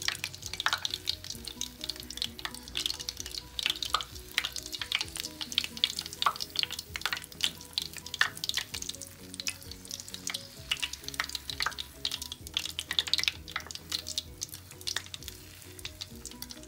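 Beef kababs frying in hot oil in a shallow pan: a steady sizzle with dense, irregular crackling and popping, under soft background music.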